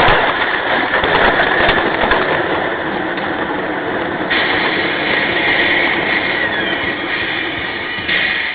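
Steady noise of a moving vehicle, changing abruptly about four seconds in and again near the end.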